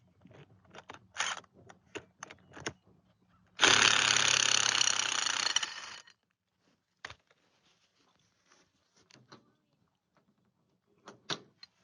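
Handheld drill running for about two and a half seconds, starting and stopping abruptly a third of the way in, as it backs a screw-in tie-down anchor out of the ground. It is surrounded by scattered clicks and clinks of the anchor kit being handled.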